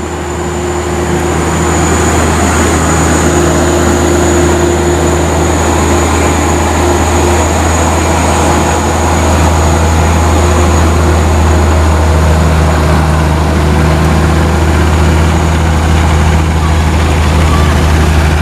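Heavy truck's diesel engine running under load while hauling an 85-tonne locomotive. It is a deep, steady drone that grows louder over the first couple of seconds, then holds close and steady, with a faint high whine above it.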